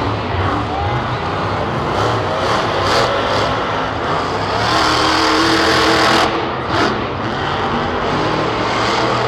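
Monster truck engine running and revving, loudest about five to six seconds in, then dropping off suddenly.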